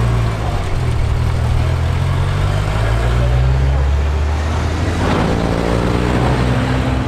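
A motor vehicle's engine running with a strong low drone, rising in pitch about five seconds in as it speeds up.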